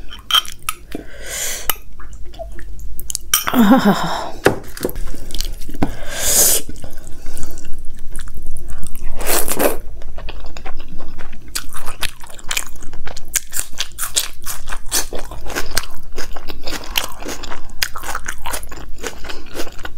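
Close-miked eating sounds: chewing of vegetable dum biryani eaten by hand, with crunching and wet mouth clicks that come thick and fast through the second half.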